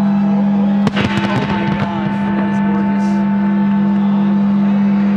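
Fireworks exploding: a quick cluster of sharp bangs about a second in, over a loud steady low hum.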